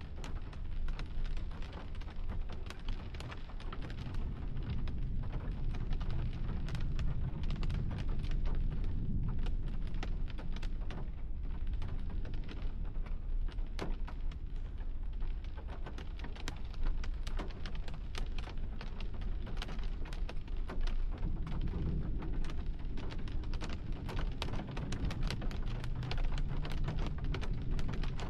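Rain striking a hard surface in dense, irregular ticks, over a steady low rumble of storm wind and thunder.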